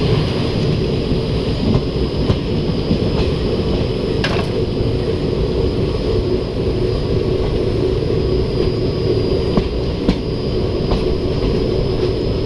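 A passenger train running at speed, heard from on board: a steady rumble with a few sharp clicks of the wheels over rail joints, the clearest about four seconds in.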